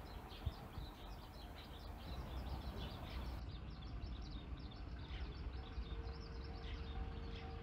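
Small birds chirping over and over above a low steady outdoor rumble; a faint steady tone joins in over the second half.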